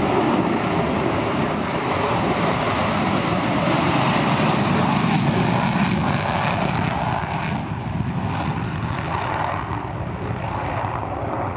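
F-35 Lightning II fighter jet's engine running, a loud continuous jet noise with a steady tone running through it, easing a little in the second half.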